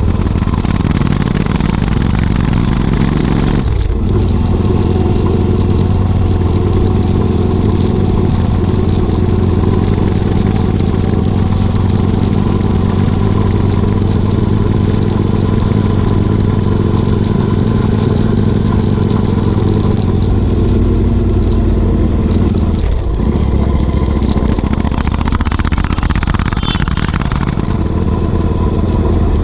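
Royal Enfield Interceptor 650's parallel-twin engine running through a Motowings aftermarket exhaust, a steady deep rumble on the move. Its note dips briefly twice, about four seconds in and again near twenty-three seconds.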